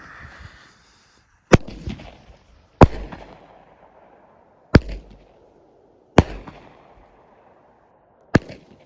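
Top Gun Fireworks' Chaos firework cake firing shot by shot: five sharp bangs spaced roughly one and a half to two seconds apart, each with a short crackling, echoing tail, after a brief hiss at the start. The shells seem to be breaking weakly, which the shooter calls half breaks and guesses is down to the below-freezing cold.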